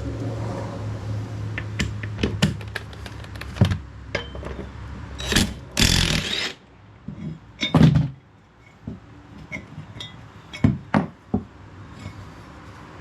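Tools and metal parts knocking and clanking while a walk-behind mower is worked on to get its blade off. A low hum stops about four seconds in. About halfway through comes one loud, harsh burst lasting about a second, followed by a few more separate clanks.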